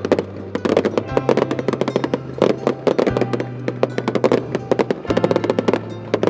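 Aerial fireworks bursting and crackling in rapid, overlapping cracks over music with sustained low notes that change every second or two.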